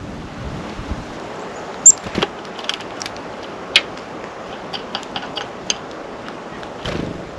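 Scattered sharp taps and clicks of birds landing and pecking at a seed feeder, loudest about two seconds in, with a quick run of small ticks past the middle, over a steady hiss of wind on the microphone.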